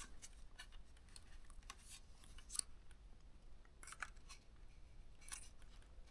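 Faint scattered plastic clicks and scrapes of an SSD in a plastic drive caddy being handled and pushed at the laptop's drive bay, where it does not slide in easily.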